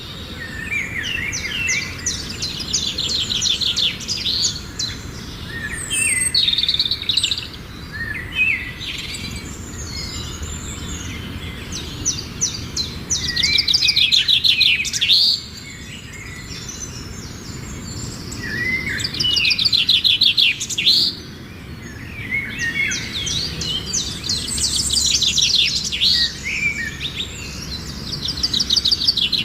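Songbirds singing, with phrases of rapid high chirps repeated again and again, over a steady low background noise.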